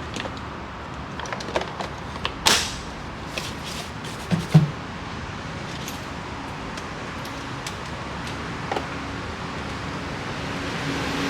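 Scattered light clicks and knocks, with one sharper click about two and a half seconds in and two dull thumps about a second later, over a steady low hum that grows louder near the end.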